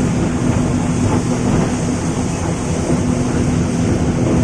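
A ship's engine running steadily: a constant low drone with a steady hum through it, heard on board.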